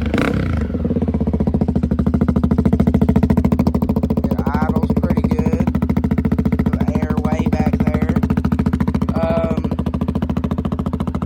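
Honda CRF250F's single-cylinder four-stroke engine idling steadily, just started on its electric-start button.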